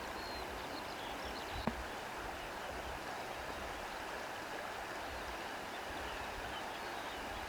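Steady shoreline ambience of sea water washing and wind rustling through reeds, an even hiss without distinct wave surges. One short knock sounds a little under two seconds in.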